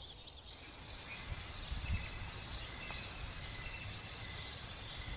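Insects trilling as background ambience: a steady, high, thin trill starts about half a second in, with fainter short chirps below it over a low, even rumble.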